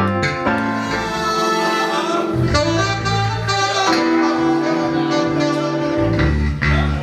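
Live band playing a jazz-funk piece, with a saxophone holding long notes over a bass line.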